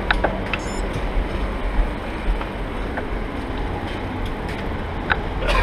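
Wind rumbling on the microphone and road noise from a moving bicycle, with a few light clicks and rattles.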